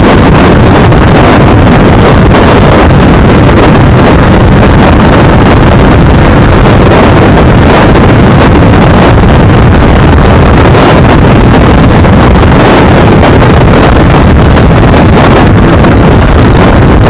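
Loud, steady wind buffeting on the microphone, mixed with the rumble of a vehicle travelling at speed.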